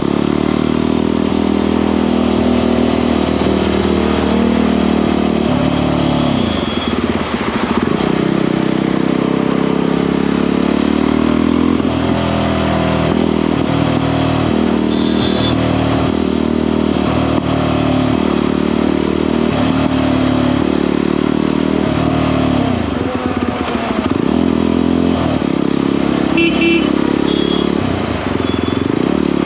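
Motorcycle engine and exhaust running under way at a steady pace. The pitch drops and climbs back a few times, about a quarter, three quarters and near the end, as the throttle is eased and reopened.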